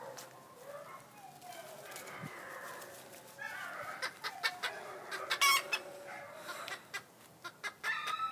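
A flock of chickens clucking and squawking, the calls growing louder and more frequent from about halfway, with one loud squawk in the middle.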